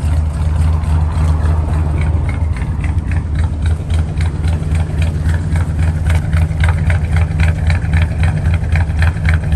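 1969 Chrysler Town & Country wagon's V8 running on its high idle soon after a cold start, a steady, even exhaust beat.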